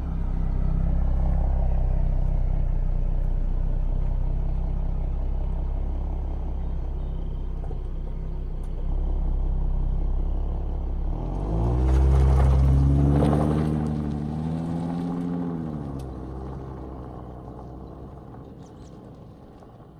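2014 Ford Mustang with its stock exhaust: a steady low engine rumble, then a rev rising about halfway through that holds for a few seconds and falls away. After that the exhaust sound fades steadily.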